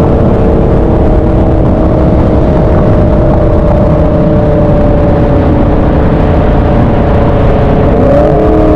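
Loud, steady rumble of a V8 muscle-car engine, its note sagging slowly and then rising as it is revved about eight seconds in.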